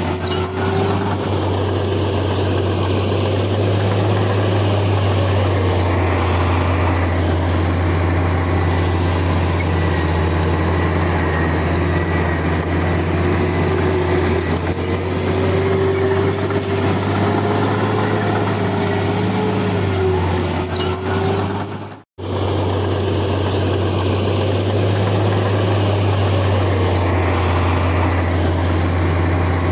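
Heavy diesel earthmoving machinery running steadily under load, a deep engine hum with a wavering whine above it. The sound cuts out for an instant about 22 seconds in.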